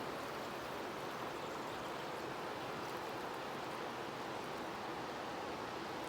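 A fast-flowing river rushing, a steady, even wash of water noise.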